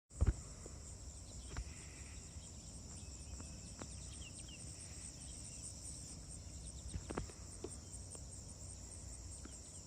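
Steady high-pitched insect chorus, with a few faint clicks and knocks, the loudest one right at the start.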